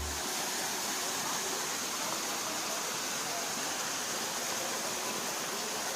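A steady, even rushing hiss with no pitch or rhythm, like running or falling water.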